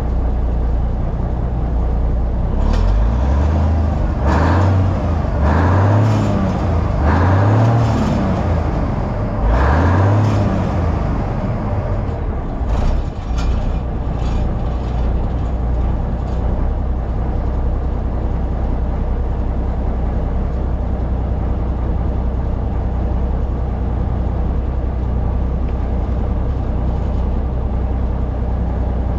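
Cummins diesel engine in an old Brockway truck, revved four times in quick succession and then settling back to a steady idle, running fairly well after sitting for decades. A few sharp clicks come through in the middle.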